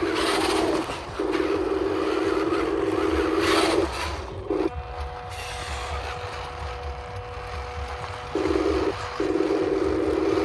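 Small electric motors and gearboxes of a radio-controlled construction vehicle whining in long stretches. They cut out briefly about a second in and again for about four seconds in the middle, leaving a fainter steady hum.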